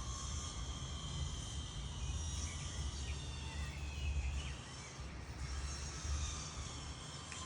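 Outdoor background noise: a low rumble that eases about halfway through, under faint steady high-pitched chirring and a few short chirps.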